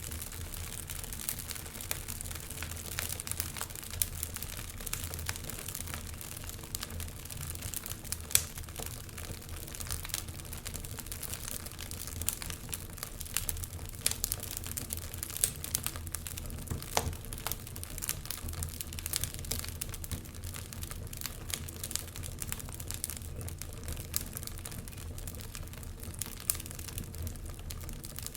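Wood fire burning in a fireplace, crackling with irregular snaps and pops over a steady low rumble; one sharper pop comes about eight seconds in.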